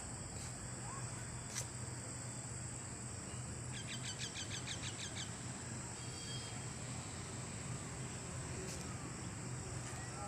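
Outdoor birdsong: one bird sings a fast trill of evenly repeated notes about four seconds in, with a few faint scattered chirps. A steady high-pitched hum and low background noise run underneath.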